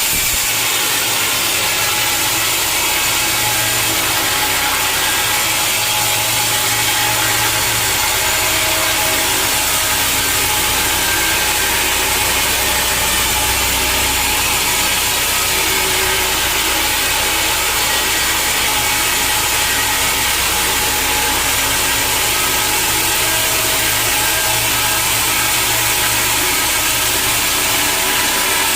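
Sawmill saw cutting through a log: a steady, unbroken high-pitched cutting noise over the low hum of the mill's motor, which comes in about a second in.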